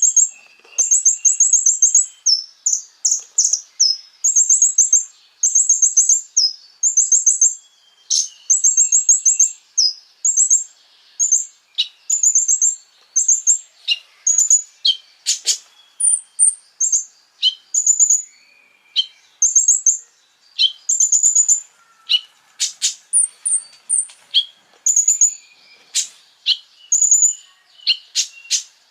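Konin songbird singing: short, rapid, very high trills repeated about once a second, mixed with sharp single chip notes.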